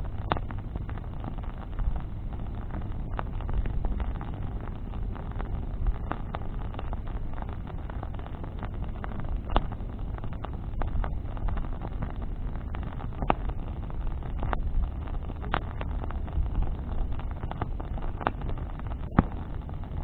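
Bonfire of burning branches crackling, with sharp pops every second or few, the loudest near the end, over a steady low rumble of wind on the microphone.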